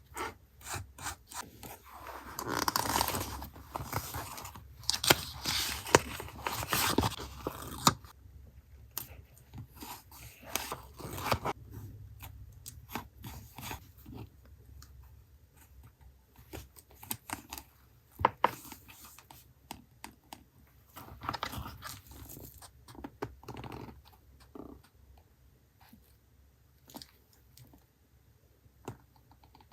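Paper and collage materials being handled on a desk: rustling, crinkling and scraping for the first several seconds, then scattered light taps and clicks.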